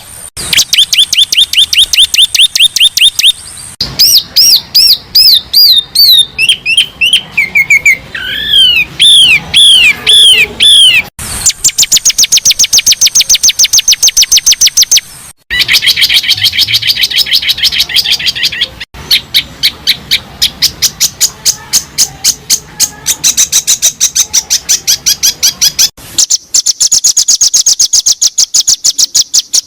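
Recorded songbird calls of the kind used as masteran training material: fast runs of sharp repeated chirps and trills. The phrase type changes every few seconds, with abrupt cuts between spliced segments. From about 4 to 11 seconds in comes a string of falling and arching whistled notes.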